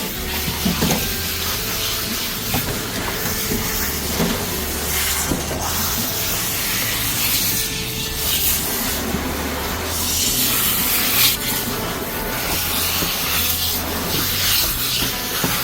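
Water spraying in a steady hiss that swells and eases, with rubbing and handling noises, as a dog is washed.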